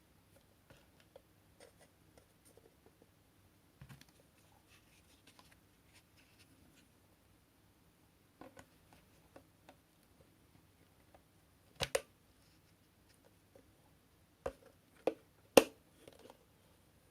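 Scattered light clicks and knocks of the parts of a cordless stick vacuum being handled, with no motor running. There is a louder double knock about twelve seconds in, and a cluster of sharper knocks near the end.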